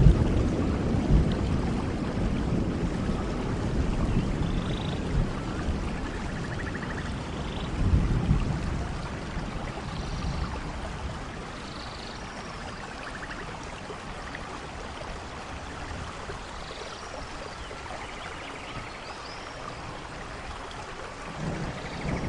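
Steady rain with rolling thunder: a low rumble dying away over the first several seconds, a brief swell about eight seconds in, then the rain alone until a new rumble builds near the end.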